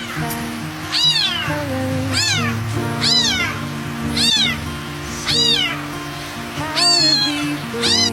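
Small kitten meowing over and over, one high-pitched call that rises and falls about every second, over soft background music.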